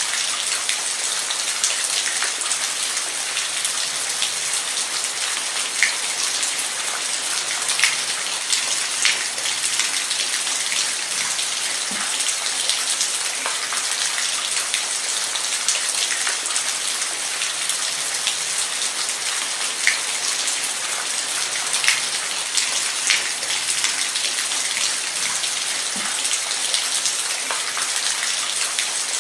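Steady rain falling, an even hiss with scattered sharper drops striking a surface now and then.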